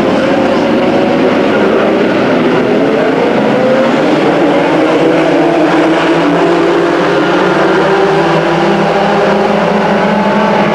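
A field of short-track race trucks' engines running together on the oval. Several engine notes overlap and rise and fall in pitch as the trucks go by.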